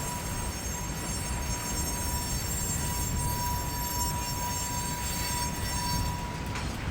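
Freight train cars moving slowly during switching: a low rumble with a steady, thin squeal from the wheels that stops shortly before the end.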